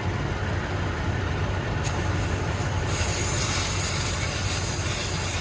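Smittybilt 2781 portable 12 V air compressor running with a steady, fast-pulsing mechanical rumble. About two seconds in, a loud hiss of escaping air starts as the inflator hose is unplugged from the tire, and it continues.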